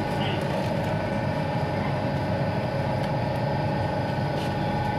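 Passenger train pulling out of a station, heard from inside the coach: a steady running rumble with a constant hum.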